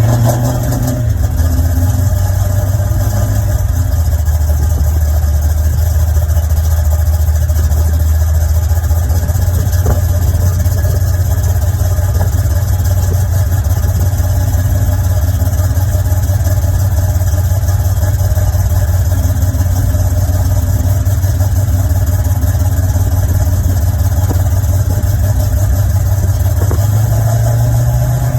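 Chevrolet Monte Carlo SS V8 idling steadily just after starting, a deep even rumble that swells slightly near the end; it sounds healthy.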